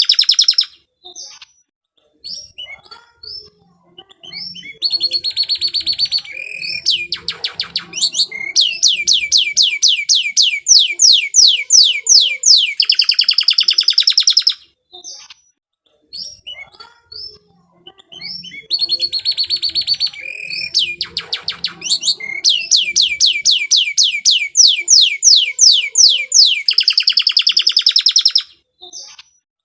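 Domestic canary singing its long, rolling song: two stretches of about ten seconds each, built of fast trills and rapidly repeated high whistled notes that change from one tour to the next, with soft scattered chirps in the pauses between.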